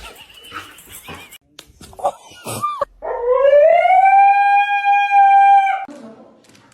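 Dog howling: a few short cries, then about three seconds in one long howl that rises in pitch and holds steady for nearly three seconds before stopping.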